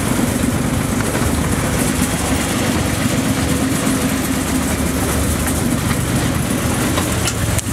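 Small-gauge railway train heard from on board: the locomotive's engine running steadily with a constant hum, over the rumble of the wheels running along the rails.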